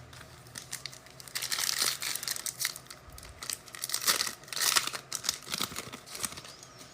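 Trading-card pack wrapper crinkling and tearing as it is ripped open, in a run of irregular rustles from about a second in until just before the end.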